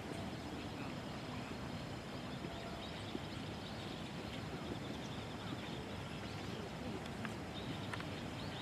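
Steady outdoor background noise, with a few faint short ticks about three quarters of the way through.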